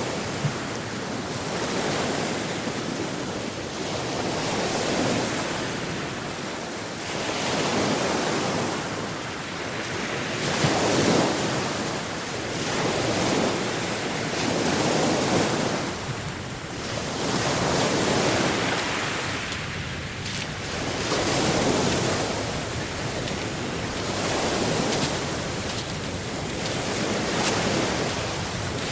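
Atlantic Ocean waves surging and breaking on the shore, the wash swelling and falling back every few seconds, with wind buffeting the microphone.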